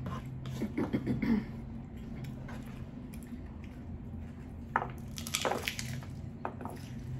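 Close-miked chewing and crunching of a hard-shell taco: a quick run of crunches about a second in, then scattered crunches and mouth clicks from about five seconds in, over a steady low hum.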